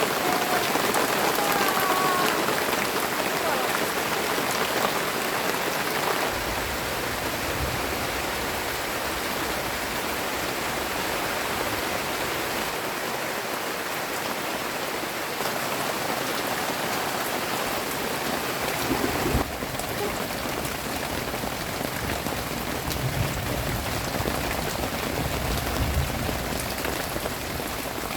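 Steady rain falling and pattering on surfaces, with a single dull knock about two-thirds of the way through.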